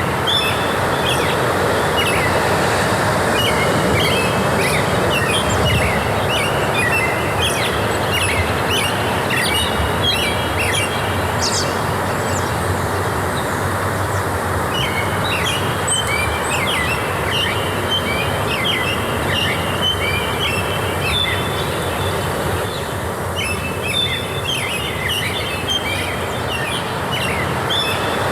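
Forest ambience: many small birds chirping in quick, repeated short phrases over a steady, even rushing noise.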